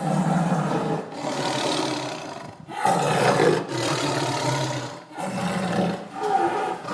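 Tiger roaring, a run of about five rough roars, each a second or two long, with short breaks between them.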